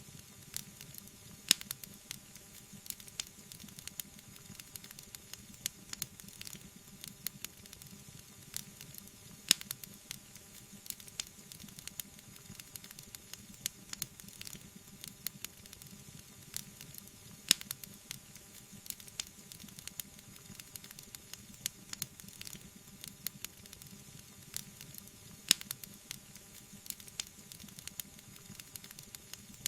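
Wood fire crackling steadily over a soft hiss, with four sharper, louder pops about eight seconds apart.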